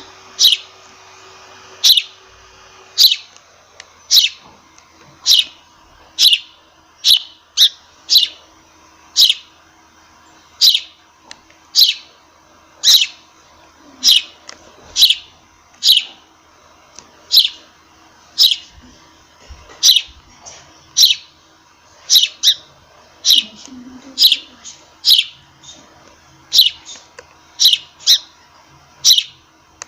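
Sparrow chirping: short, sharp single chirps repeated over and over at an uneven pace, roughly one or two a second.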